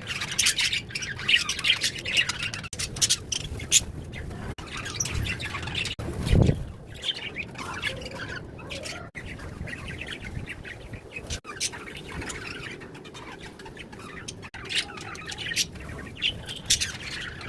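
Birds chirping and squawking in many short, rapid calls, with a brief low thump about six seconds in.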